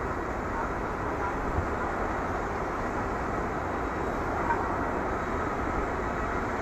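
Boeing 737-800 jet airliner's CFM56 engines, heard as a steady distant rushing noise as the plane rolls and taxis after landing.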